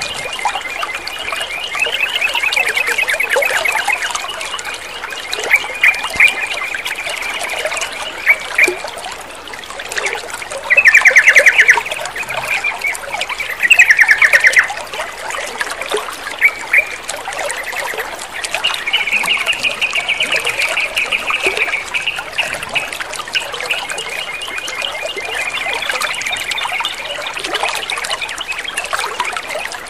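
Water trickling steadily, with a sooty-headed bulbul's (trucukan's) rapid trilled chattering over it. Its two loudest bursts come about eleven and fourteen seconds in.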